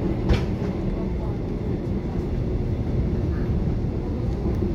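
Steady running noise heard from inside a moving passenger train, with a low hum, and a single sharp knock about a third of a second in.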